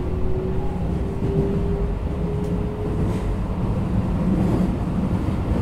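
Interior sound of a Keikyu New 1000 series 1800-subseries commuter train, recorded in the front car: a steady low rumble, with a faint tone that rises slightly in pitch and fades out about three seconds in.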